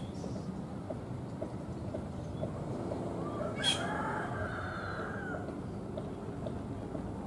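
Low, steady rumble of a passenger train rolling away along the track, with a rooster crowing once about halfway through.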